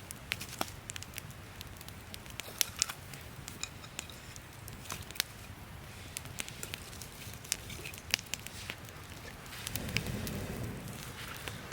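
Wood campfire crackling, with irregular sharp pops and snaps over a low steady hiss; a louder low rumble comes in near the end.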